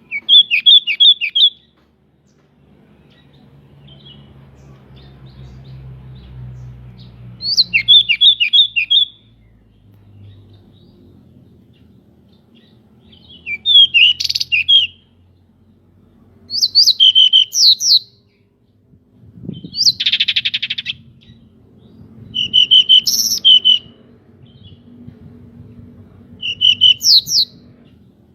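Pied bushchat singing: about seven short phrases of quick, high whistled notes, a few seconds apart. One harsher, buzzy phrase comes about two-thirds of the way through.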